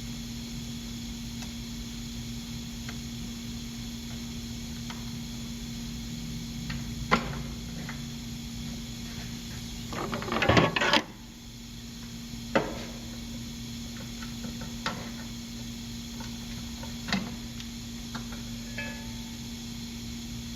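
Hand tools clinking and knocking on metal car parts during a rear wheel bearing job: single sharp clinks scattered through, and a burst of rattling metal about ten seconds in, over a steady low hum.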